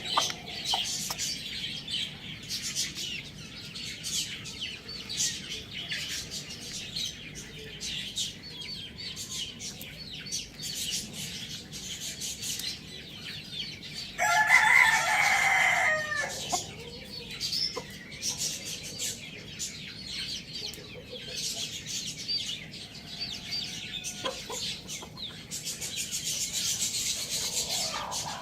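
A rooster crows once, loud and about two seconds long, about halfway through, over steady high chirping of small birds and hens clucking.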